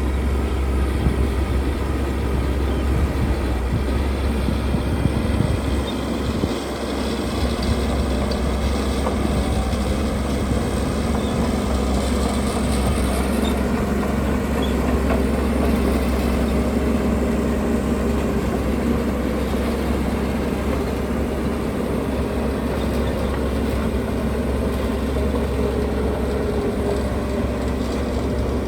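Heavy construction machinery running: a steady, loud low diesel engine rumble that dips briefly about six and a half seconds in.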